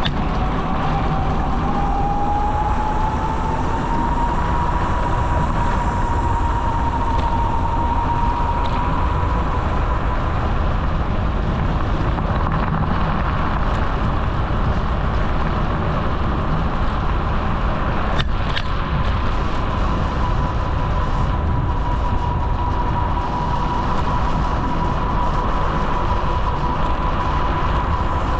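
Bicycle rolling along a paved trail, with steady wind and road rumble on the microphone and a thin whine that rises in pitch over the first four seconds, then holds steady. One sharp click about eighteen seconds in.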